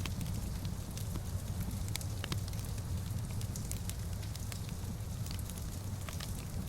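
Wood fire crackling in a fireplace, with irregular sharp pops and ticks over a steady low rumble.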